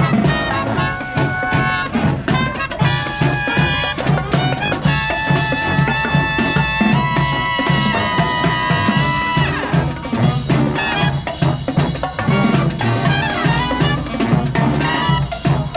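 Live brass band playing: trumpets and trombones over drums. About five seconds in, the horns hold a long chord that slides down and breaks off about four seconds later.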